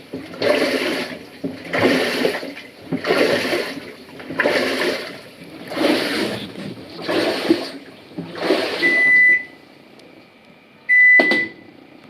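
Panasonic NA-FA100H3 washing machine agitating its load, with water sloshing in even surges about every second and a half. Near the end the surges stop and the machine gives two electronic beeps, the second with a sharp click.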